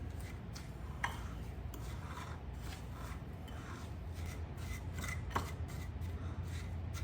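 A fork stirring and pressing a crumbly mix of graham cracker crumbs, rolled oats and melted butter in a bowl: irregular scraping, rubbing strokes.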